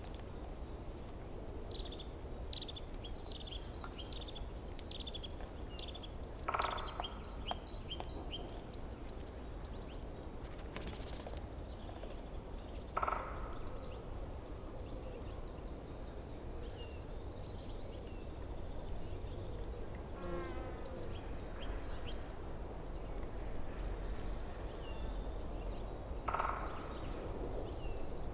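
Forest birdsong: one bird sings a quick run of downward-sliding whistled notes, about two a second, for the first several seconds, then a few short notes. Other birds call now and then, three times with a lower call, over the steady rushing of a forest stream.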